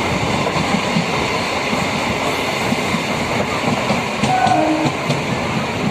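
A MEMU electric passenger train running on the track, with a steady rumble of wheels on rails.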